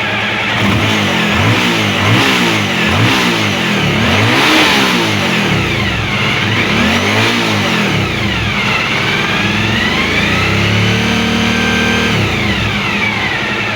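2014 Suzuki V-Strom DL1000A's V-twin engine, warmed up, on its stock exhaust in a garage: idling, then revved in a string of quick throttle blips, followed by a longer rev held for a couple of seconds before dropping back to idle.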